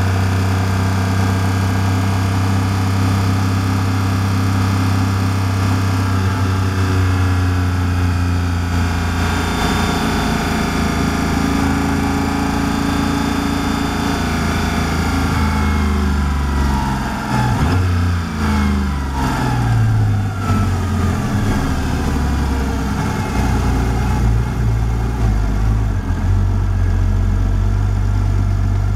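Porsche Cayman GT4 RS Clubsport's flat-six engine heard from inside the cabin, running at a steady pitch at low road speed. About halfway through, its note falls away in steps as the car downshifts and slows, settling to a low idle near the end.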